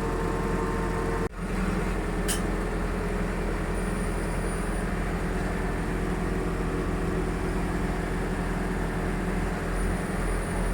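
Steady low mechanical hum of an idling vehicle engine, broken off for an instant about a second in.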